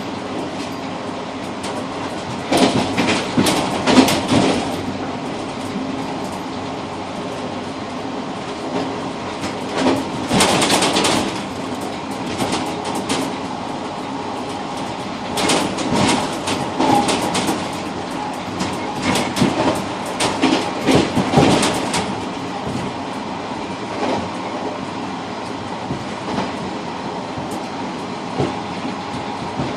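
Passenger train running along the line, heard from inside the rear car's cab vestibule: a steady running rumble, with runs of wheel clacks over rail joints a few seconds in, around ten seconds, and again for several seconds past the middle.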